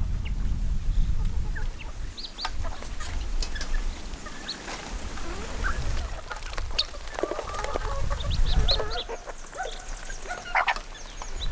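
Poultry clucking and calling in short, scattered calls over a low rumble.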